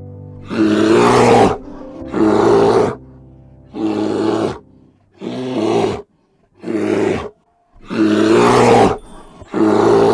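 Lion roaring in a regular series of short, rough calls, seven of them, each under a second long and spaced about a second and a half apart.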